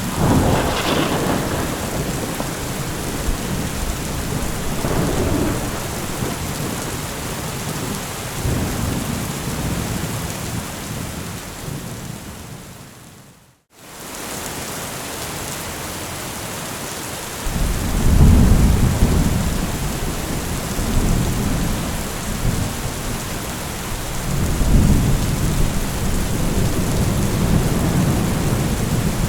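Steady rain with rolling thunder, several low rumbles, the loudest starting a little past the middle. Just before the middle the sound fades out to a moment of silence and fades back in.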